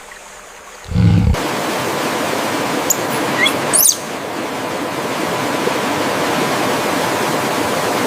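A short, low animal growl about a second in, then a steady rushing forest ambience with a few brief bird chirps near the middle.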